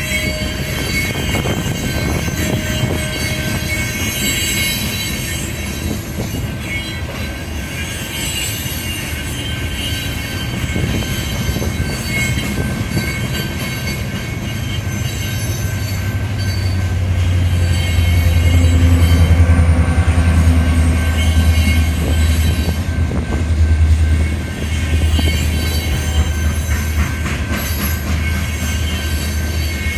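Loaded rock train's freight cars rolling through a grade crossing: steady steel-wheel and rail noise with thin high squealing tones. A deeper low rumble swells about halfway through and eases off near the end.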